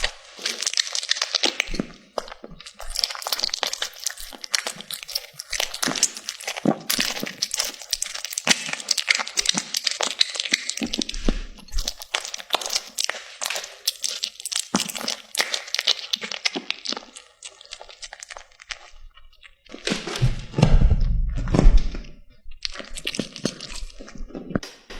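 Cats crunching dry food: dense, irregular cracking and crunching of kibble being chewed. A louder, low bumping noise comes about twenty seconds in.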